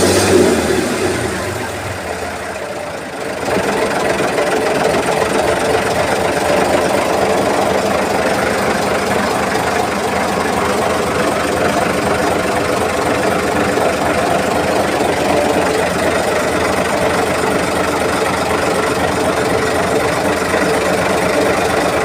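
Boat engine running steadily; its sound drops briefly about two to three seconds in, then comes back up and holds even.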